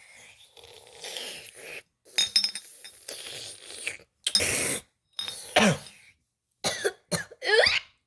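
A voice coughing and hacking in a string of short bursts with brief silences between them.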